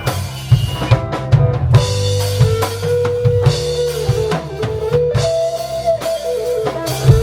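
Live reggae band playing a lovers rock groove: drum kit with kick and rimshots, deep bass line and guitar, with a held melodic line over the top.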